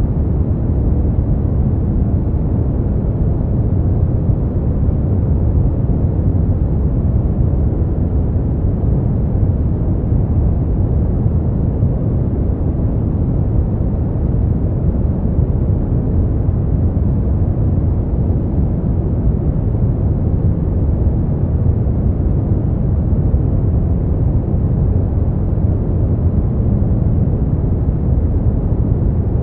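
Brown noise: a steady, deep rumbling hiss with most of its energy in the low end and no changes.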